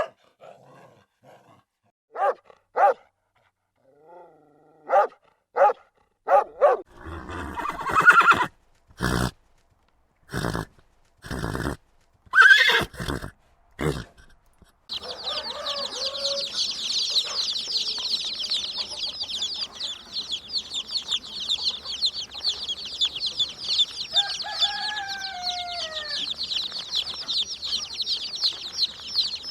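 Chickens calling: short separate clucks, then from about halfway a dense, steady high chirping of many birds, with one short falling call near the end.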